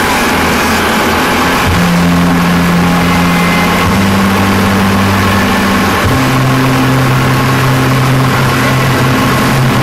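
Modified-class pulling tractor's engine running loud and steady, its note shifting in steps about 2, 4 and 6 seconds in.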